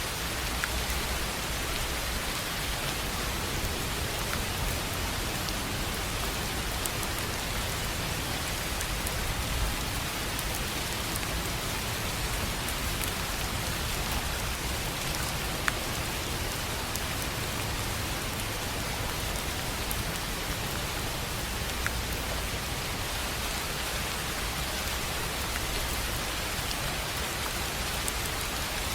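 Steady rain falling on a tin roof: an even hiss with scattered sharper drop ticks, a few of them a little louder.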